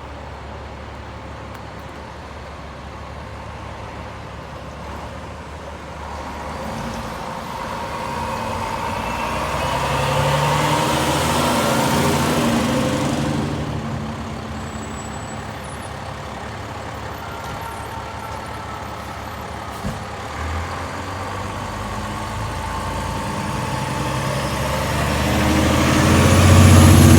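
Heavy diesel fire-truck engine idling with a steady low hum, with a broad swell of vehicle noise about ten to thirteen seconds in. The engine grows much louder over the last few seconds as the apparatus pulls out to respond.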